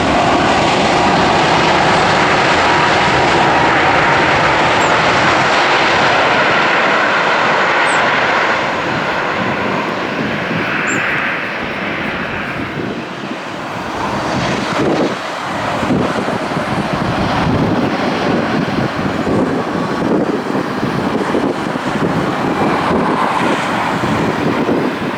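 Jet engines of a Boeing 737 MAX 8-200 running loudly: the CFM LEAP-1B turbofans. The noise is steady at first, eases a little about eight seconds in, then rises and falls unevenly.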